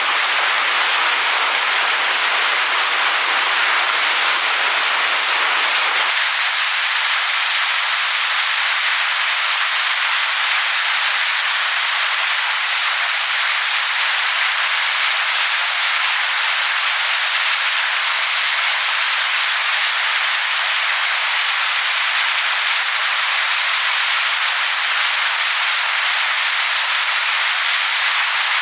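Waterfall pouring onto rocks: a steady, unbroken rush of water, weighted toward the higher range, whose deepest part drops away about six seconds in.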